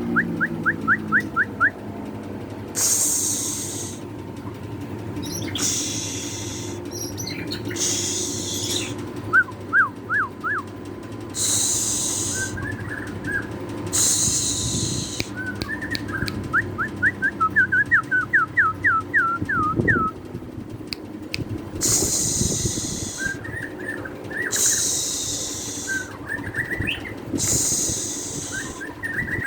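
Songbird singing: quick runs of short rising chirps alternate with harsh, hissing bursts about a second long, again and again.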